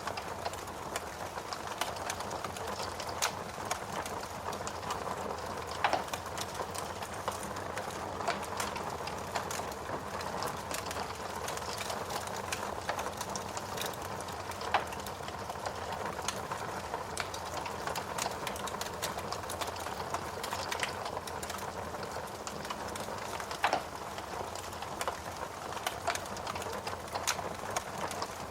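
Fireplace fire burning, a steady crackling hiss with scattered sharp snaps and a few louder pops.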